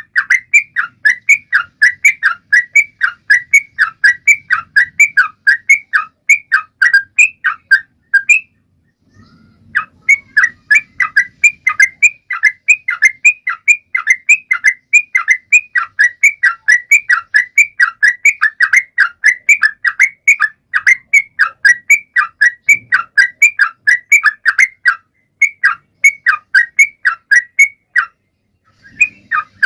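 Trucuan (a bulbul) singing continuously: a fast run of short, sharp whistled chirps, about three a second, with brief pauses twice.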